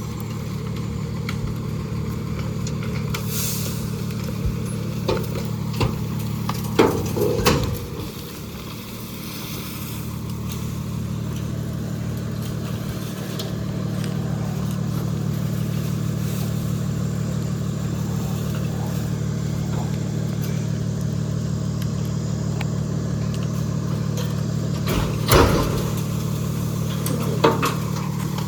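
A garbage truck's engine running steadily, with sharp metal clanks about seven seconds in and twice near the end. The engine sound eases briefly after the first clanks, then picks up again.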